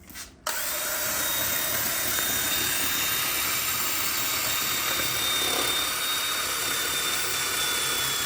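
Battery-powered drill starting about half a second in and running steadily with a thin high whine, driving a sanding pad on a headlight lens.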